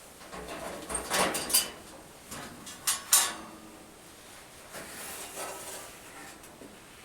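A disposable furnace filter and its housing being handled for a filter change: scraping slides about a second in, two sharp clicks around three seconds in, then softer rustling and scraping.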